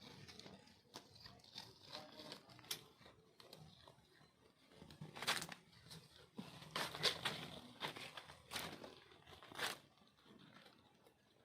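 Faint rustling and crinkling, with several louder brief rustles from the middle on.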